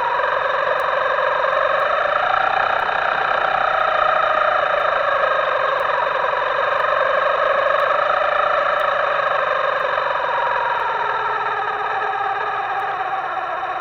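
Electric motor of a radio-controlled model whining, its several-pitched tone rising and falling slowly with the throttle.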